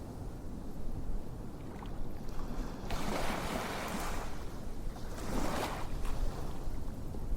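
Ocean waves washing in over a steady low rumble, swelling up twice, about three and five seconds in.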